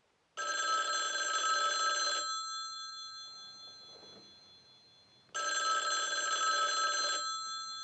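Telephone bell ringing for an incoming call: two rings about two seconds long each, a few seconds apart, the bell sounding on and fading after each ring.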